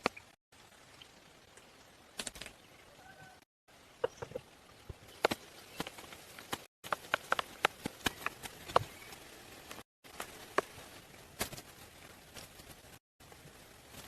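Irregular sharp knocks and clicks of hand work, coming thickest in a run through the middle, over a faint steady background. The sound drops out completely for a moment several times.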